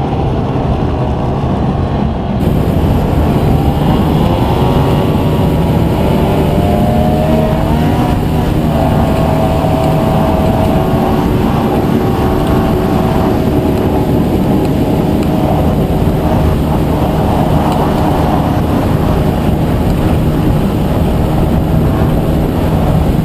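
A vehicle engine running at speed. About two seconds in it picks up, with a strong rushing noise and its pitch rising over the next few seconds. It then holds steady.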